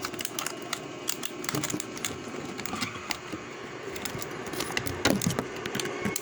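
Small hard plastic pieces and packaging being handled, giving many irregular sharp clicks and rattles, with a cluster of louder knocks about five seconds in.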